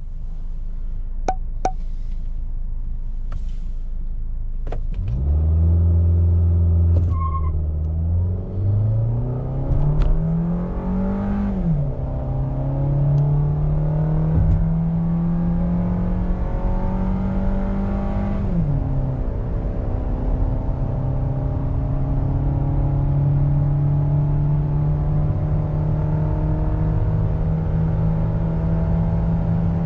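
A 2023 Suzuki XL6's 1.5-litre four-cylinder engine with automatic gearbox accelerating hard, heard from inside the cabin. After a low rumble and a few sharp clicks, it revs up about five seconds in. Its pitch climbs and drops back twice as the gearbox upshifts, then it settles into a steady drone.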